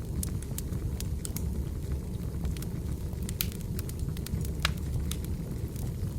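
Wood fire burning: a steady low rumble of flames with irregular sharp crackles and pops, the loudest pop about four and a half seconds in.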